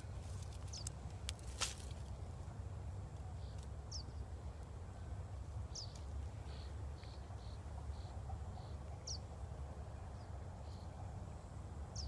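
A bird chirping every few seconds, short high calls that drop in pitch, over a steady low wind rumble. There are a few sharp snaps in the first two seconds.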